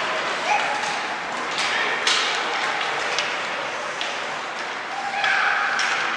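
Youth ice hockey game sounds: sharp taps and clacks of sticks and puck over a steady hiss. Short shouts come about half a second in and again near the end.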